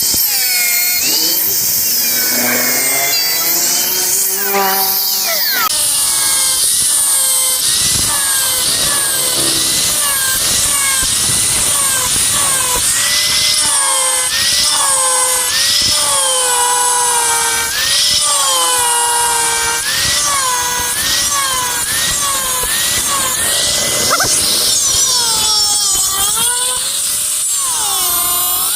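Handheld electric power tool working wood, its motor whine dipping in pitch and recovering again and again, about once a second, over a steady high hiss.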